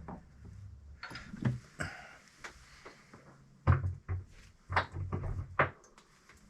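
A run of about ten sharp metal clunks and knocks, irregularly spaced and loudest in the middle, as the A/C compressor and its mounting bracket are handled and fitted onto the engine.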